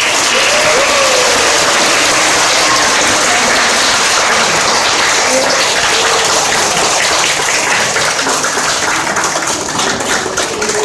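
Audience applauding, starting abruptly and loud, with a few voices calling out early on; near the end the clapping thins into separate claps.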